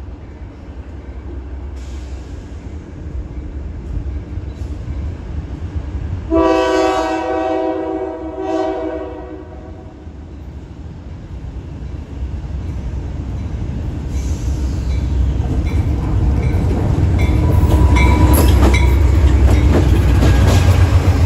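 Providence & Worcester freight train's diesel locomotive sounding its horn, one long blast about six seconds in followed by a short one, as it approaches. The low rumble of the engine and wheels then grows steadily louder, with wheels clacking on the rails as the locomotive and its cars pass close by near the end.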